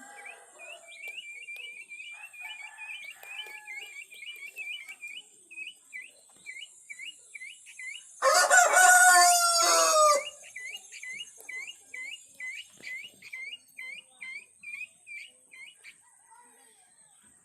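Village rooster crowing once, a loud call of about two seconds near the middle. Around it runs a steady series of short high chirps, about two a second.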